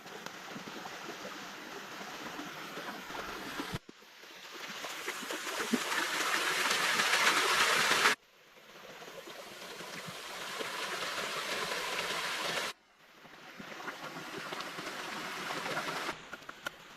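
Rushing stream water in a few short clips, each swelling louder and then cutting off abruptly.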